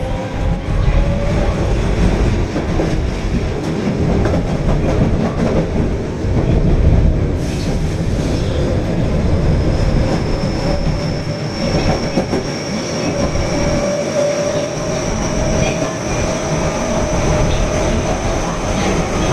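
Osaka Metro Tanimachi Line subway train running between stations: steady rumble of wheels on track, with a motor whine that climbs slowly in pitch over the second half.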